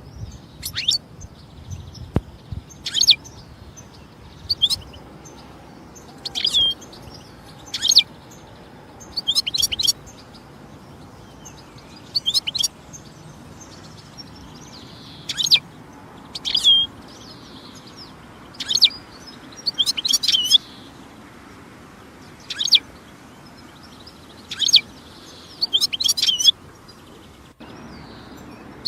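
European goldfinch calling and twittering in short, bright, high phrases, each under a second, repeated every one to two seconds with pauses between.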